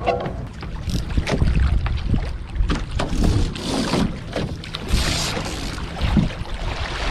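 Wind buffeting the microphone over water rushing and splashing along a sailing catamaran, with a low uneven rumble and scattered short knocks and splashes.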